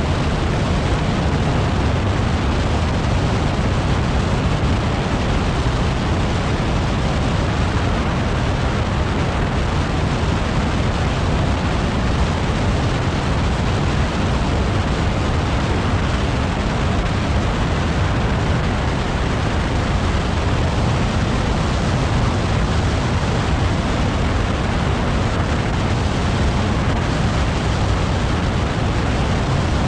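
LADA Vesta SW Cross on the move at highway speed: a loud, steady rush of tyre and wind noise with a heavy low rumble.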